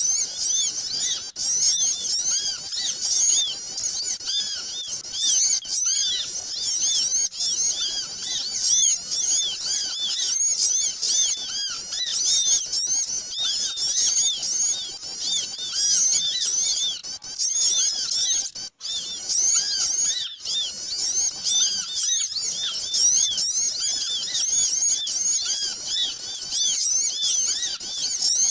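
Dense chorus of many small birds chirping and twittering over one another in quick, overlapping high calls, with no let-up: a small-bird lure (pikat) call recording.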